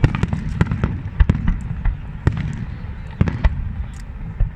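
Fireworks display: a rapid, irregular string of sharp bangs and crackling pops over a steady low rumble.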